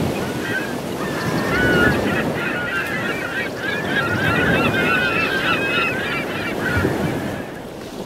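A flock of birds calling over one another, many short wavering honks and cries, over a steady rushing background noise; the calls thin out and fade near the end.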